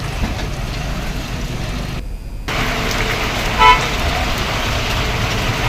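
Steady outdoor street noise, with a single short vehicle horn toot about three and a half seconds in. The sound drops out briefly just before the horn.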